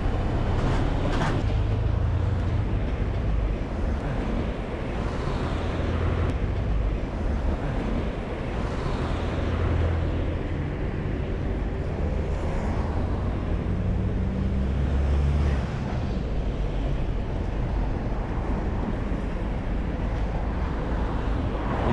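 Street traffic: motor vehicles running and passing, a continuous low engine rumble and road noise that swells and fades several times as vehicles go by.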